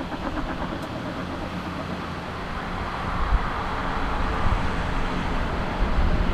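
Jet airliner engine noise: a steady rushing rumble that slowly grows louder.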